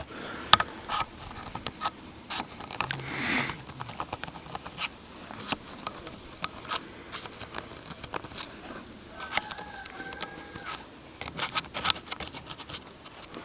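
Hand work on a homemade engine gasket: scattered sharp clicks, light taps and short scraping and rustling sounds of tools and gasket sheet being handled and cut.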